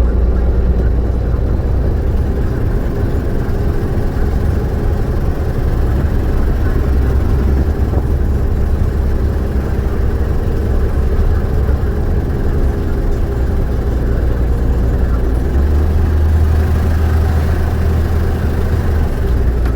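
Peterbilt semi truck's diesel engine running steadily, heard from inside the cab as a deep rumble with a steady hum above it. The low rumble grows stronger for the last few seconds.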